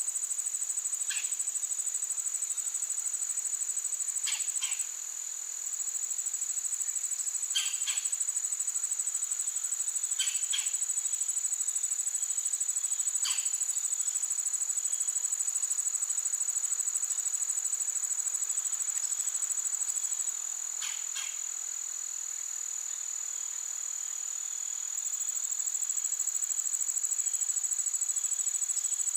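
Insects trilling continuously in a high, rapidly pulsing tone. It dips in loudness briefly about five seconds in and again for several seconds past the twenty-second mark. A few short, higher chirps break in now and then.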